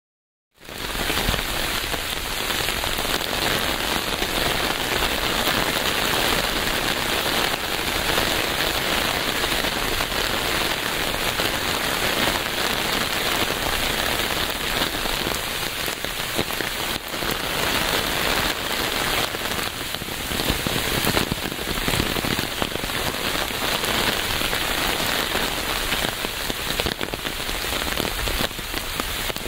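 Steady, dense rain falling on a surface, an even hiss with fine patter. It cuts in abruptly out of a brief silence about half a second in and then holds steady.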